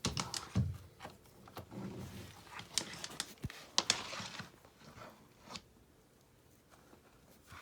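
River rocks being handled and set into mortar: a run of knocks, clicks and scrapes, stone on stone and on the wet mortar bed, dying down after about five or six seconds.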